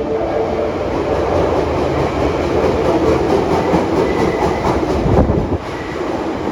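Osaka Metro Midosuji Line subway train running along the station platform, with a steady rumble and a run of regular wheel clicks over the rail joints. It is loudest about five seconds in, then drops away suddenly.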